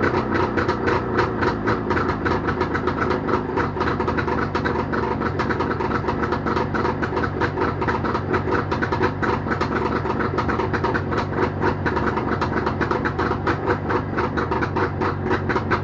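Jawa motorcycle's two-stroke engine running steadily after a repair, with an even, fast pulsing beat.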